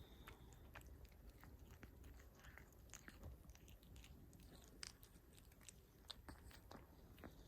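A cat eating, its chewing heard as faint, irregular crunching clicks, a few each second.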